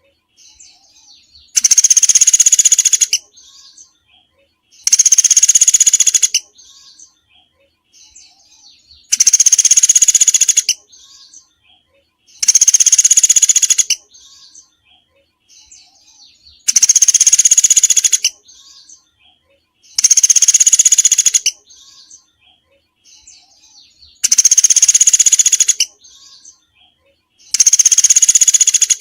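Recorded small songbird call used for bird-song training: a loud rapid call about a second and a half long, repeated eight times at gaps of three to four seconds, with softer short chirps in between.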